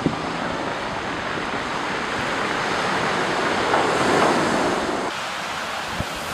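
Storm surf crashing and washing in against a seawall, heard as a dense, steady roar with wind mixed in. It swells to its loudest about four seconds in, then drops abruptly to a quieter wash about five seconds in.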